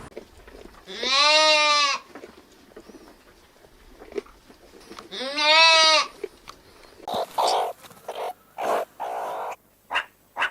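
Animal calls: two long, wavering pitched calls, then a series of shorter, rougher calls that come quicker and quicker.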